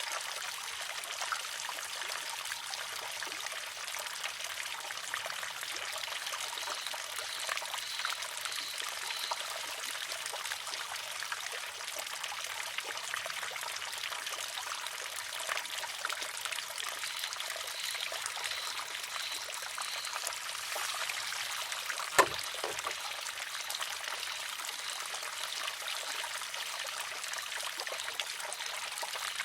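Water trickling steadily through a wooden shishi-odoshi, with one sharp clack about three-quarters of the way through as the filled arm tips over and strikes its rock.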